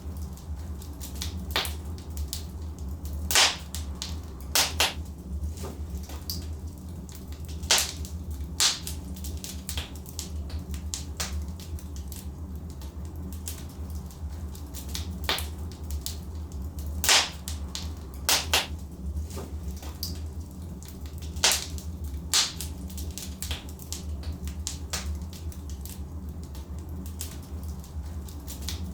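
Logs burning in a fireplace: a steady low rumble of the fire with sharp wood crackles and pops at irregular intervals, a few of them louder snaps.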